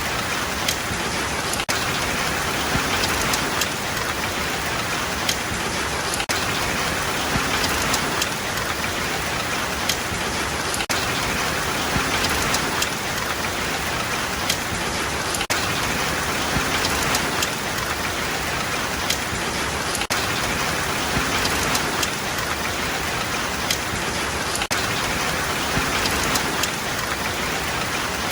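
Steady rain falling on a surface, an even hiss with many separate drops ticking sharply through it.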